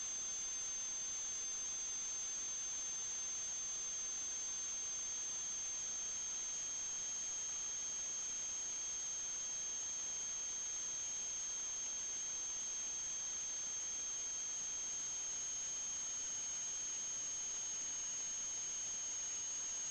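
Steady, high-pitched electronic whine with a fainter lower tone beneath it, over a constant hiss; the tones hold almost unchanged throughout.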